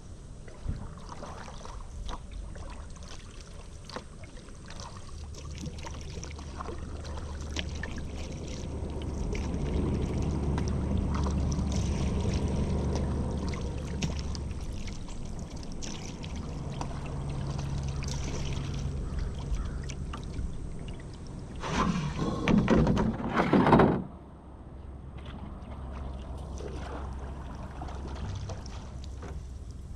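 Kayak paddling: the paddle dips and drips with small splashes and knocks against the hull, while a low hum swells and fades around the middle. About two-thirds of the way through comes a louder rushing splash lasting about two seconds.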